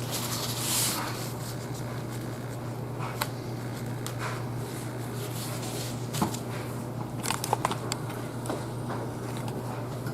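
Light clicks and rustling from handling parts or tools by hand, scattered through a steady low hum. A cluster of sharper clicks comes about six to eight seconds in.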